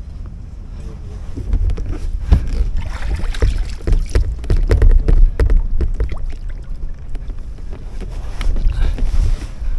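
Strong wind buffeting the microphone in a low, gusting rumble, with irregular knocks and splashes starting about a second and a half in.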